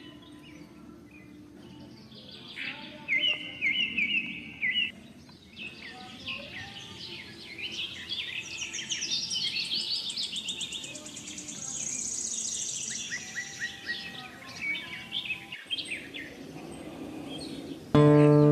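Several small songbirds singing and chirping, with quick trills and rapid repeated notes that come and go. Near the end, loud guitar music comes in.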